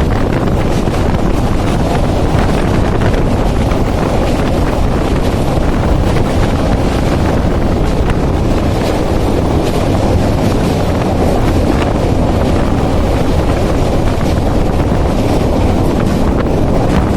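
Steady loud rumble of a moving train with heavy wind buffeting the microphone.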